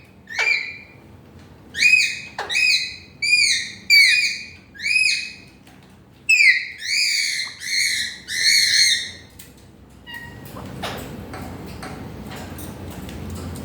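Pet parrot calling: a run of short, loud whistled notes, each rising then falling, in two bursts of about five and four calls. After about ten seconds the calling stops and soft rustling and faint clicks go on.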